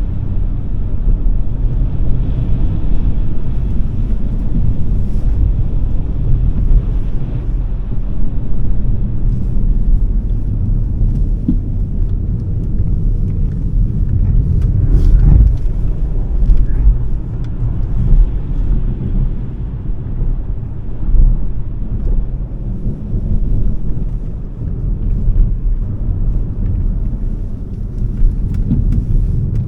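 Smart #3 electric car on the move: a loud, steady low rumble of tyres and road with wind noise, and no engine sound. A brief louder bump comes about halfway through.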